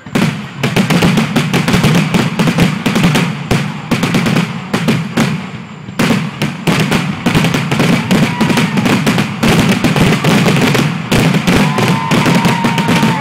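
Fireworks display going off in a dense, rapid barrage of bangs and crackling bursts, briefly thinning twice before building again.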